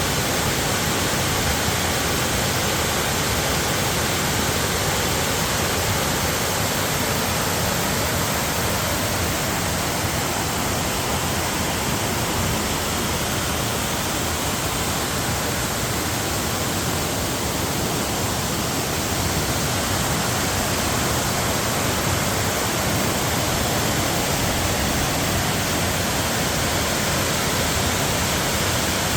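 Mountain waterfall: water falling and rushing in a steady, unbroken roar of noise.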